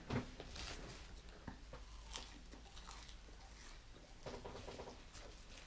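Faint chewing and mouth sounds of a person eating French fries by hand, with scattered small clicks and crackles over a steady low hum.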